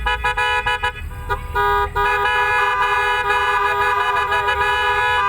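Pickup truck horns honking: quick repeated toots for about the first second, then after a short break a long steady blast held through the rest.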